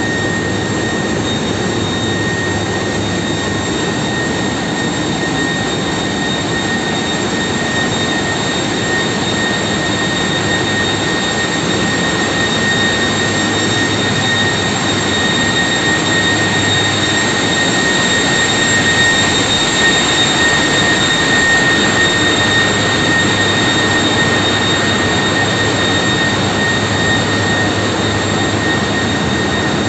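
A ship's engine room with its machinery running: a loud, steady roar with a high whine held on one pitch.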